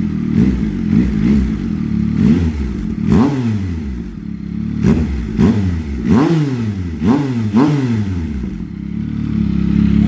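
2024 Yamaha MT-09's 890 cc inline-three engine, fitted with a Leo Vince aftermarket exhaust, revved in a rapid series of short throttle blips. Each rev rises sharply and drops back toward idle, and the engine settles to a steady idle near the end.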